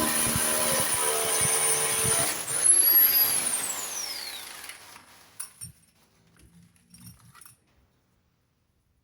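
Electric drill running at full speed with a high whine, released about two seconds in, briefly pulled on again, then let go so the motor winds down with a falling whine over about two seconds. A few faint knocks follow.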